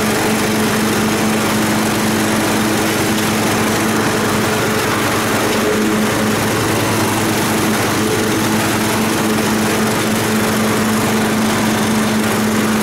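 Riding lawn mower's 13-horsepower engine running steadily while mowing, at an even, unchanging pitch.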